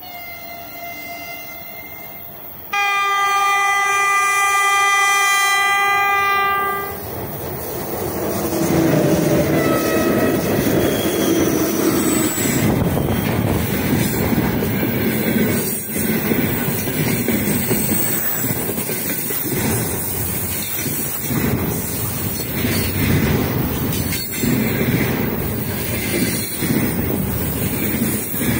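3ES5K "Ermak" electric locomotive hauling a container freight train: a faint horn tone at the start, then one loud, long horn blast about three seconds in that lasts around four seconds. The locomotive then passes close by and the heavy train of container wagons rolls past with a steady rumble and scattered clacks of wheels on the rails.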